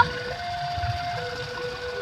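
Railroad level-crossing warning alarm sounding, a steady electronic tone that alternates between a lower and a higher pitch about once a second, over the low rumble of waiting traffic.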